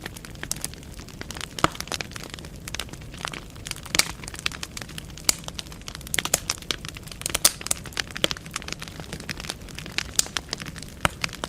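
Wood fire burning in a fireplace: logs crackling with frequent irregular sharp pops over a low steady rumble of flames.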